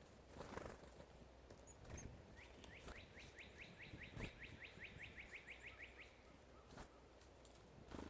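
A bird trilling faintly: a quick run of about eighteen rising chirps, roughly five a second, lasting some three and a half seconds, with a few faint knocks around it.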